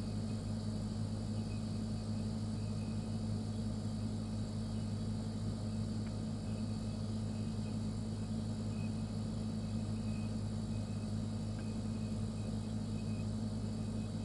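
Refrigerator running, its compressor giving a steady low hum that does not change.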